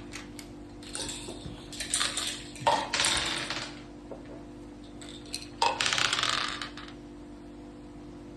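Dice and game pieces of a mak saka (Thai backgammon) board game clattering, in two rattling bursts: one about two to three seconds in, and another about six seconds in.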